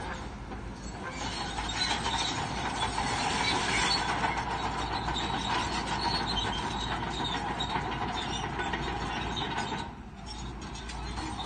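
Shantui crawler bulldozer working, its engine running under the steady clank and squeal of its steel tracks. The sound dips briefly about ten seconds in.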